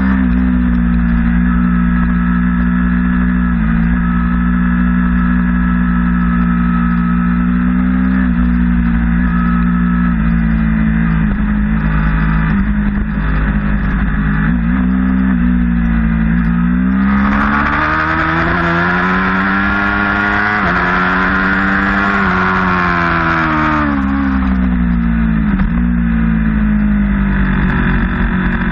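Sportbike engine heard from onboard the motorcycle while lapping a racetrack, running at a steady pitch through the corners, then climbing steadily in pitch for about five seconds under hard acceleration before dropping back as the bike slows, with a constant low wind rush underneath.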